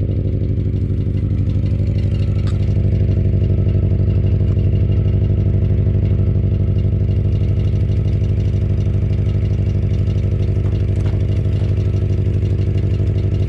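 Mitsubishi Pajero Mini's small four-cylinder engine idling steadily with a clattering rattle (katakata). It is an abnormal noise that only began the day before, in an engine already worsening, and its cause is unknown to the owner.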